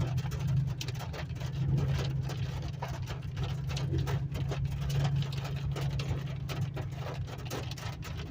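Inside a vehicle driving slowly on a hail-covered road: a steady low engine and road drone with many irregular sharp ticks and clicks of hail.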